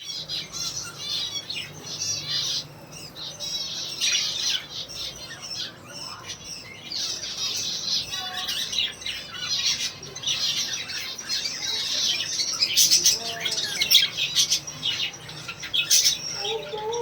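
Budgerigars chattering: dense, overlapping chirps and warbling calls, with a few sharp clicks in the last few seconds.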